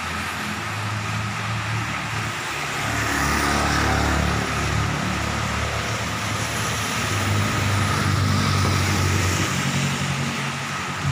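Heavy rain falling steadily, with cars driving past on the wet road; their engine hum and tyre noise swell twice, about a third of the way in and again past the middle.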